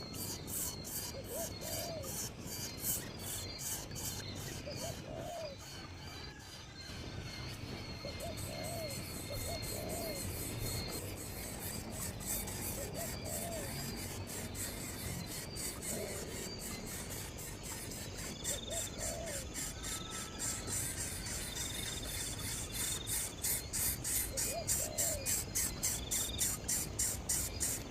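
Coucal giving short, low hooting calls, one every one to three seconds, over a fast, even high-pitched ticking chirr that grows louder near the end.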